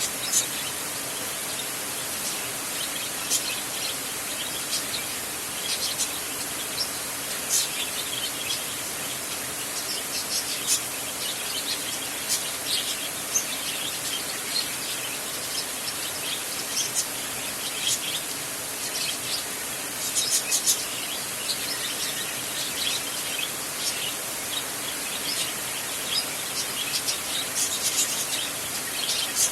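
Rain falling on a tin roof: a steady hiss with many sharp, irregular high pings of drops striking the metal.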